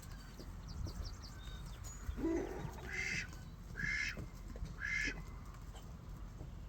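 Birds calling: a lower, rough call, then three similar calls about a second apart, with a few faint short chirps before them.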